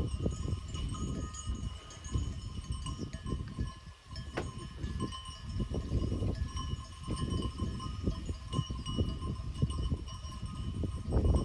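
Bells on grazing livestock clinking and ringing on and off, with wind rumbling on the microphone.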